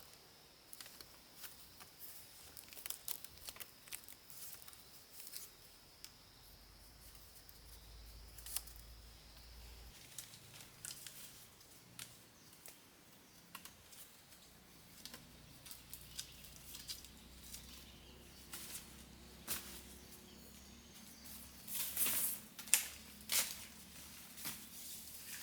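Irregular clicks, snaps and rustles of hand work with small materials, with a louder cluster near the end. A cricket-like insect trills steadily in the background, stopping about ten seconds in.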